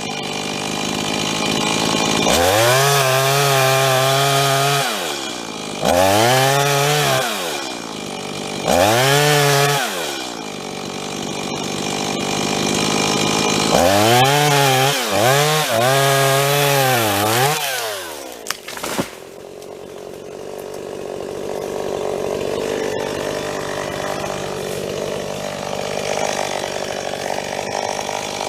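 Stihl MS 170 chainsaw, a small two-stroke, revved up to full throttle and let back down four times while cutting into a dead elm. The engine cuts out about two-thirds of the way through, leaving a softer, even noise.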